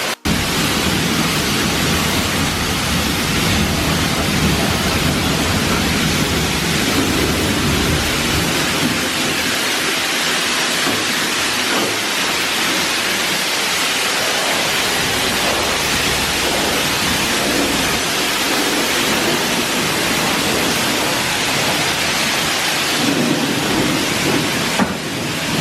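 High-pressure car-wash wand spraying a steady stream of water onto a pickup truck's body, a continuous loud hiss and spatter.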